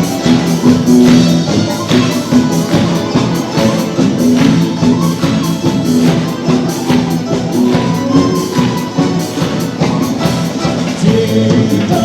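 Russian folk-instrument orchestra playing an instrumental interlude between verses, with sustained melody and chords over a steady percussion beat.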